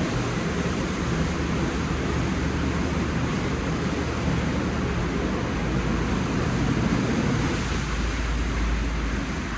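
WashTec SoftCare Pro rollover car wash running through its programme: a steady rushing noise from the machine's spray and motors. A deeper rumble builds after the middle and eases near the end.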